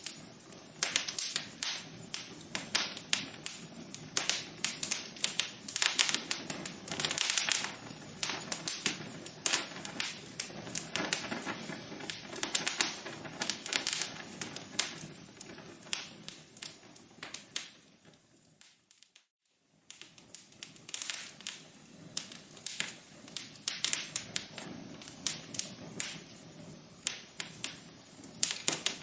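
Wood fire in a fireplace crackling, with a steady stream of sharp pops and snaps. About eighteen seconds in, the sound fades to near silence for a second or so, then fades back in.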